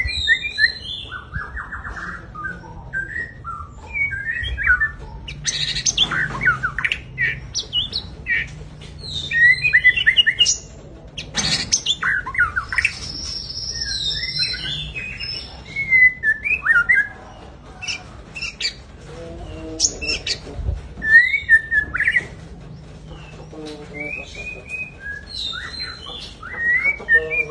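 White-rumped shama singing: a long run of varied, quickly changing whistled phrases and chatters, coming in bouts with short pauses between them.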